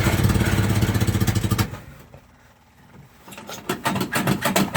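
1949 Jeep engine on a cold start, running with fast, even firing pulses, then dying out about two seconds in. Near the end, a run of uneven clicking strokes follows as it is cranked again.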